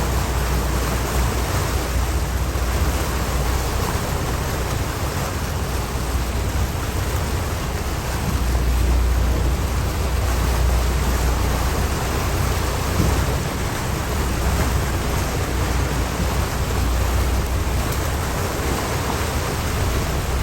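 Steady rushing wind on the microphone of a moving tour boat, with a deep rumble from the boat and the water underneath; it swells a little about eight seconds in.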